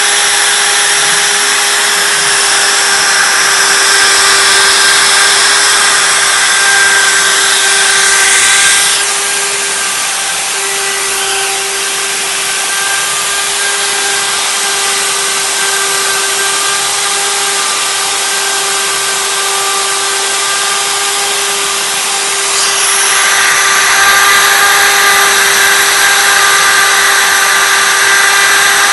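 CNC wood router's spindle running with a steady high whine while the bit carves wood. The rougher cutting noise above the whine eases off about nine seconds in and comes back strongly about twenty-three seconds in.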